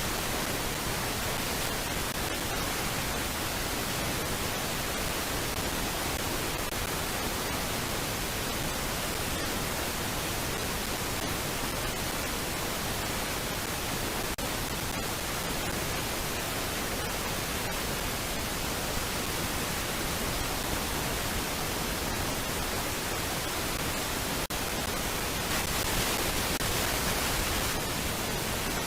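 Steady, even hiss like static, with no bird calls standing out; it swells slightly for a couple of seconds near the end.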